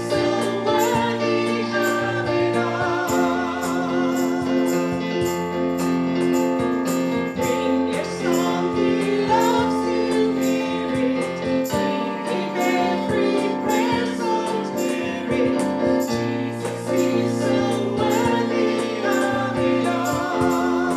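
Congregational worship song: voices, a woman's voice leading, singing over piano or keyboard accompaniment with a steady beat.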